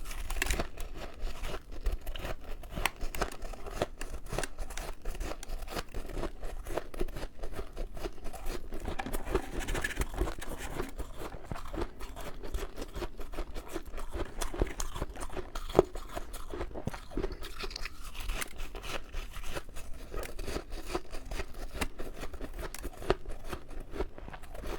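Close-miked mouth crunching and chewing of soft, powdery freezer frost: a dense run of quick, irregular crunches, with one louder snap a little past the middle.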